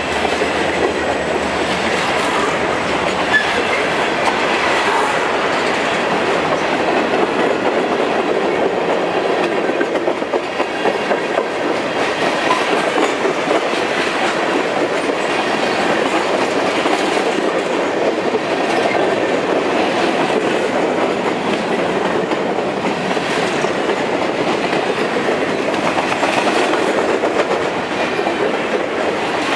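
Freight train cars, covered hoppers and tank cars, rolling past close by: a steady rumble of steel wheels on the rails, with clickety-clack as the wheels cross rail joints.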